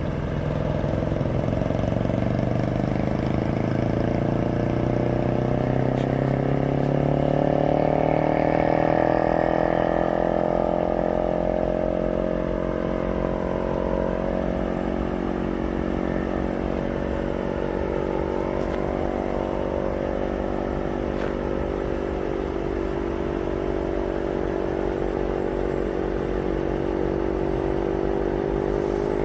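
Heavy wrecker's diesel engine revving up, its pitch climbing steadily over the first several seconds and then held at high revs, as when working the truck's hydraulics.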